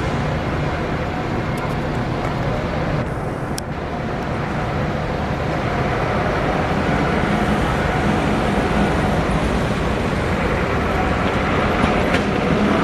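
Steady, loud mechanical din of dockside fish-unloading and sorting machinery, with a low hum beneath and a few faint clicks.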